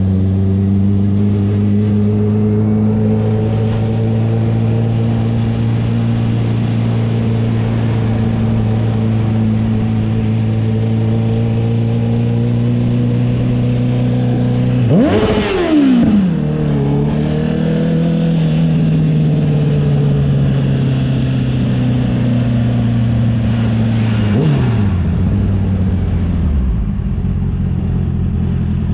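Honda CB650R inline-four engine running through an aftermarket CS Racing exhaust, ridden at steady revs. About halfway through the revs jump sharply and fall straight back. They hold steady again, then drop away as the throttle closes near the end.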